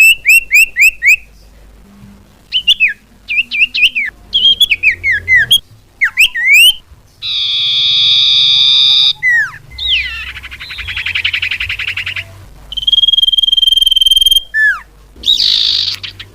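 Iora (cipoh) calls played as a bird-trapping lure. There is a quick run of about six down-slurred whistles, then varied slurred notes, and later buzzy trills and a steady held whistle.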